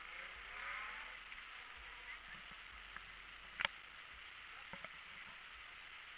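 Faint steady hiss of outdoor background noise, with a distant voice in the first second and a single sharp click about three and a half seconds in, followed by two smaller clicks.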